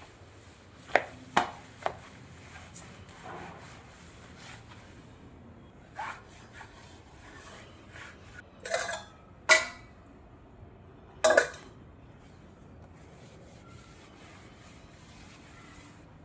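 Dishes and utensils being handled: a scattering of sharp knocks and clinks, irregular and a second or more apart, with the loudest two about nine and a half and eleven seconds in.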